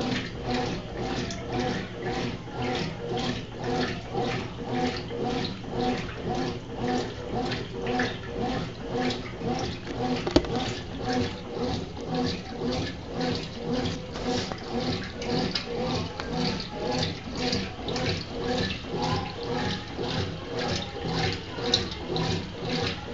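Consul CWC08 washing machine agitating the wash in water, a steady back-and-forth swishing about twice a second. There is a sharp click about ten seconds in and another near the end.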